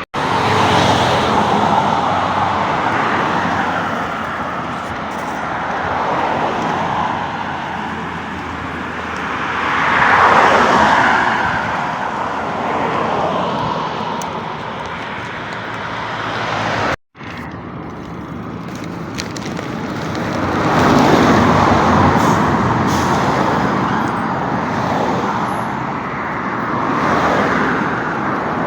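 Road traffic running along a busy road, with vehicles swelling past twice. The sound cuts out abruptly for an instant about 17 seconds in.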